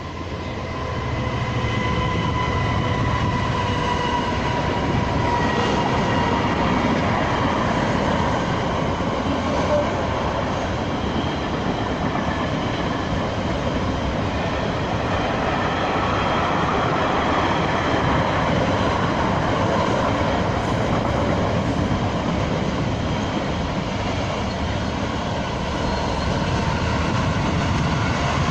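A train passing along the line: a loud, steady rumble of wheels on rails that builds in the first second or two. Over the first ten seconds a whine sits on top of it and slowly falls in pitch.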